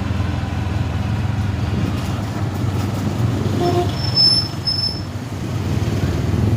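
Motorcycle engine of a Philippine tricycle running steadily with road noise while riding. Two short high-pitched beeps come just past the middle.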